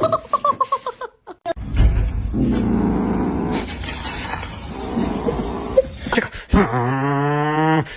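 Cat calls over background music: a quick run of short, high mews in the first second, then a long, low, drawn-out yowl near the end.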